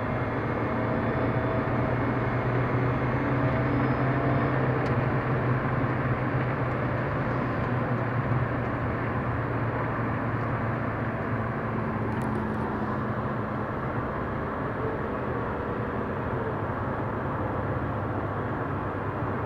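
Alfa Romeo 159 1.9 JTDm four-cylinder turbodiesel running steadily, with a faint high whistle over the engine note. The owner is unsure whether the whistle is the turbo or something else.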